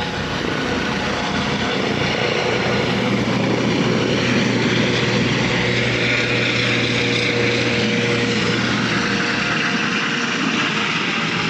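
Helicopter's engine and rotor running with a steady, loud, even noise and a low hum beneath it.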